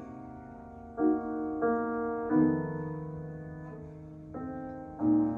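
Piano playing slow, sustained chords between sung lines of a ballad: five chords struck over the few seconds, each left to ring and fade.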